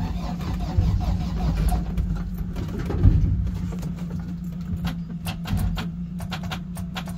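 A vehicle engine idling steadily, with a run of irregular sharp clicks over the second half.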